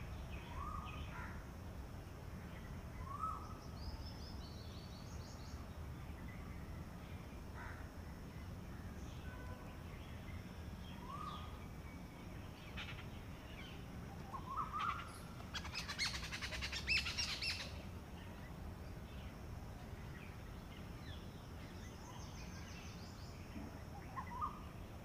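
Wild birds calling: scattered short chirps throughout, and a brief louder, harsh chatter about two-thirds of the way through, over a low steady background noise.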